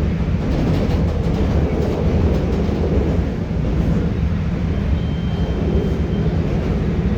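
CTA Red Line rapid-transit car in motion between stations: a steady low rumble of wheels on rails, heard from inside the car. A faint high thin whine sounds briefly about five seconds in.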